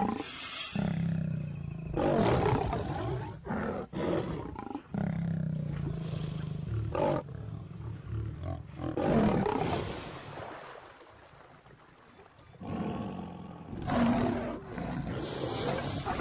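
Lion growling in repeated loud bursts, deep and rough, with a quieter lull a little past the middle.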